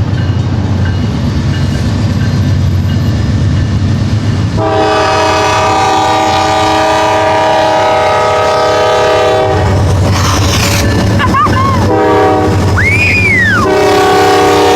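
Norfolk Southern diesel locomotive horn sounding as the train approaches, over a low engine rumble: one long chord blast starting about four and a half seconds in, then a pause with short blasts, and another long blast near the end.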